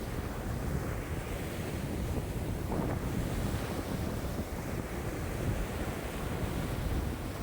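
Waves breaking and washing at a lake shore in strong wind, with wind buffeting the microphone as a low rumble. The wash swells and eases, with one brighter splash about three seconds in.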